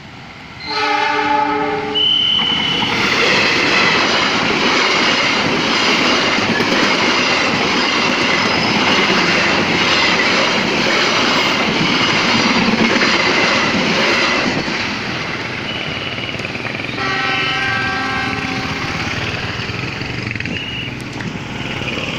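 Malabar Express passenger train going through a level crossing. A horn blast comes about a second in, then the loud rush of the passing train and its wheels lasts about twelve seconds before fading. A second horn blast sounds later.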